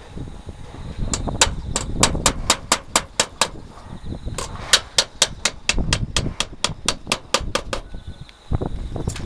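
Roofing being nailed down: a rapid series of sharp clacks, about three or four a second, in two runs with a short break between.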